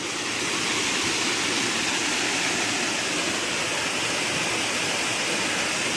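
Steady rush of a waterfall running with little water, falling over a rock face.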